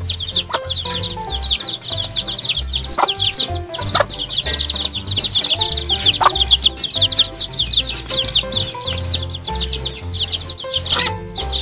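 A flock of young chicken chicks peeping without a break, many short, high, falling cheeps overlapping one another. Background music with held notes and a low bass line plays underneath.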